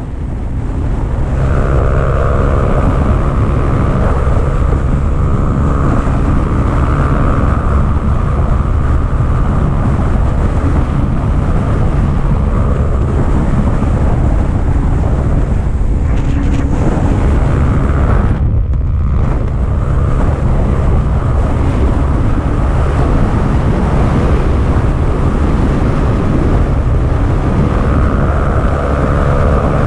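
Motorcycle engine running steadily at speed under heavy wind buffeting on the rider's microphone, with a short drop in the sound about eighteen seconds in.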